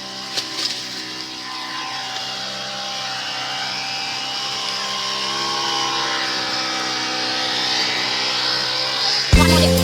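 A motor running steadily, its hum drifting slowly in pitch and growing gradually louder. Near the end a much louder sound cuts in suddenly.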